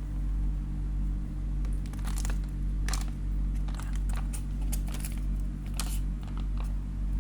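Plastic packaging crinkling and crackling in a string of short bursts as it is handled, over a steady low hum.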